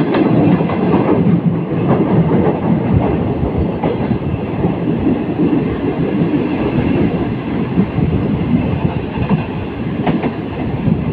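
Passenger coach of a Pakistan Railways express running along the track, heard through an open coach window: a steady rumble of wheels on rail with a few clacks over the rail joints.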